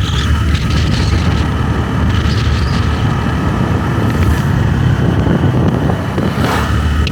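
Motorbike engine running steadily during a ride, with road and wind noise, and a brief rising sound about six and a half seconds in.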